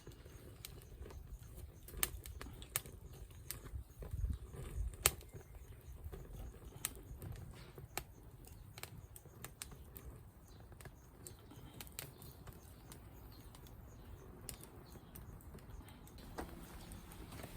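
Irregular light clicks and taps, as of small hard objects being handled, over a low rumble.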